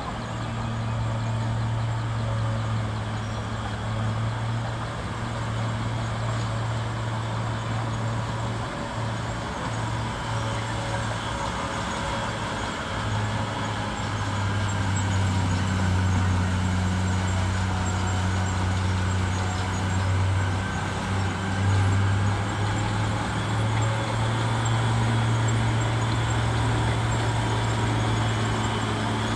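Heavy diesel engine of a bulldozer running steadily under load; its deep hum drops in pitch about midway and rises back near the end.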